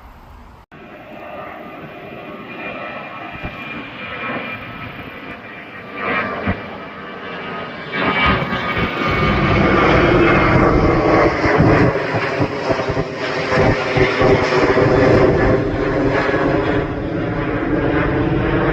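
Jet airliner taking off: engine noise with a whining tone that grows steadily louder over about ten seconds, then stays loud.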